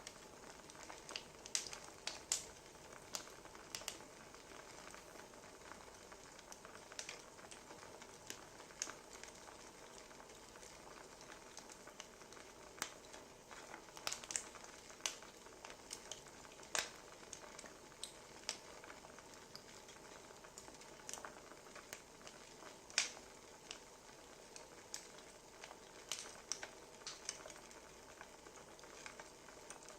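Wood fire crackling: a faint steady hiss with irregular sharp pops and snaps.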